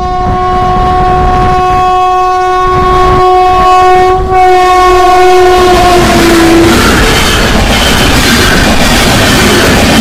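A WAP-7 electric locomotive's horn is held for about six and a half seconds as the locomotive approaches and passes, dipping slightly in pitch as it goes by. Then the loud rumble and clatter of LHB coaches running past at speed.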